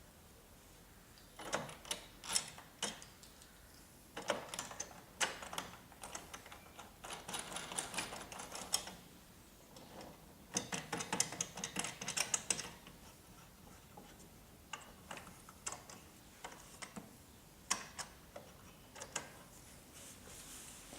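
Hardware and hand tools being worked while assembling a router table: quick runs of sharp clicking and rattling in four bursts, with short pauses between them.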